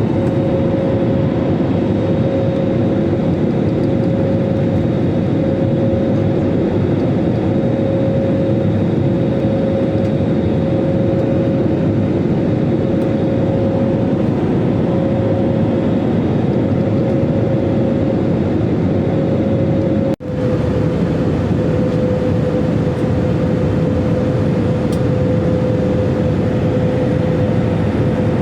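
Steady, loud roar of an airliner's engines and airflow heard from inside the passenger cabin, with a constant hum running through it. The noise drops out for an instant about twenty seconds in, then carries on the same.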